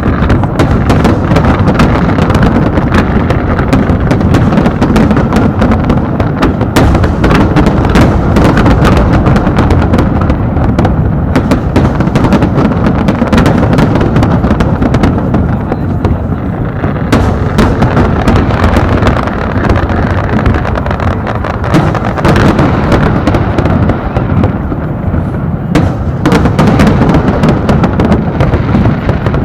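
Large fireworks display: shells bursting in a dense, very loud barrage of overlapping booms and sharp cracks with no gaps, easing briefly a few seconds before the end before another flurry.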